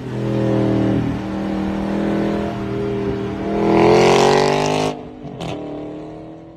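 Car engine running, then revving with a rising pitch about three and a half seconds in, cut off abruptly; a short click follows and a fainter tone fades out.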